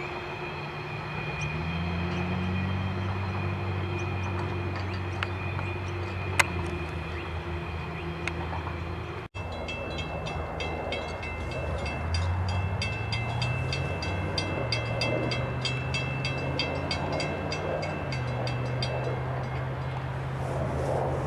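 Diesel locomotives hauling an ALCOA bauxite or alumina freight train, with a steady low engine drone that shifts in pitch. The sound cuts out for an instant about nine seconds in, and after that rapid, evenly spaced high ticking runs over the drone for most of the rest.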